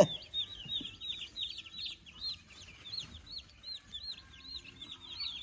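Brooder full of meat-bird (broiler) chicks peeping: a steady run of short, high chirps, about four a second, from several birds at once. A single sharp knock sounds right at the start.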